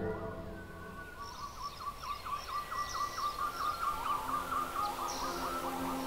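A songbird calling with a fast run of short, repeated chirps, about four a second, with thin higher notes above them. Ambient music fades out at the start, and a soft held music tone comes back in about two-thirds of the way through.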